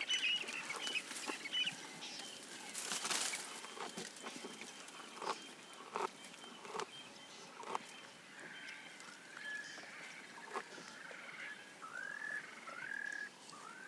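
Birds calling with fowl-like clucks, mixed with scattered sharp snaps and crackles, typical of a giraffe stripping leaves and twigs as it browses. A run of rising-and-falling chirping calls comes in over the second half.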